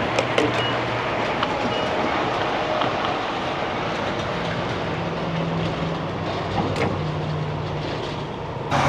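Steady engine and traffic noise with a low hum that changes pitch a few times, and scattered light clicks.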